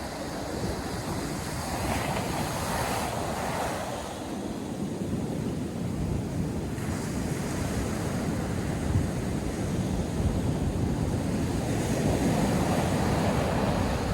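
North Sea surf breaking and washing on a sandy beach, with wind buffeting the microphone. The waves rise and fall in swells, one building about two seconds in and another near the end.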